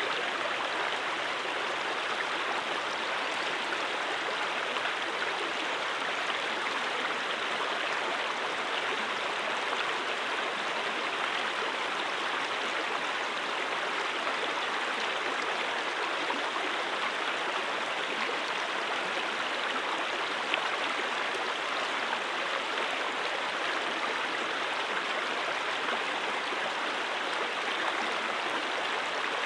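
Stream water flowing steadily over rocks, an even rushing babble with no pauses.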